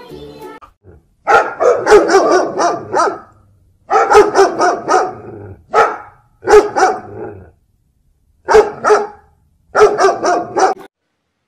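Dog barking in six short bouts, each of several quick barks, with brief silent pauses between them.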